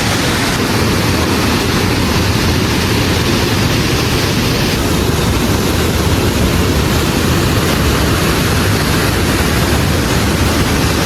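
Loud, steady rush of water falling and flowing through a canyon.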